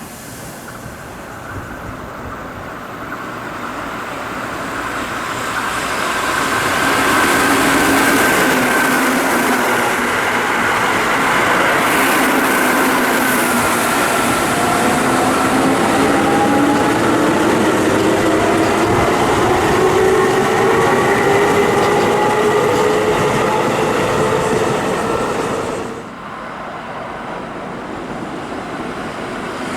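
Keihan 8000 series electric train passing through a station at speed: the rumble and wheel noise build up, run loud for a long stretch with a whine that slides in pitch, and then cut off abruptly near the end to a quieter scene.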